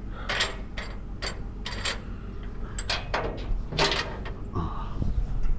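Scrap appliance metal being handled: about half a dozen sharp knocks and clatters, the loudest about four seconds in, over a steady low rumble.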